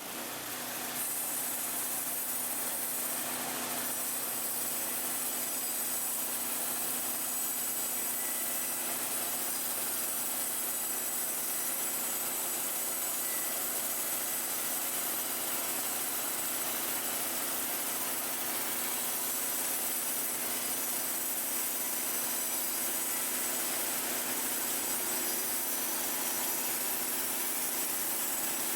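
Gasoline engine of the lumber-milling saw running at a steady speed. It comes up within the first second and holds an even pitch and level throughout.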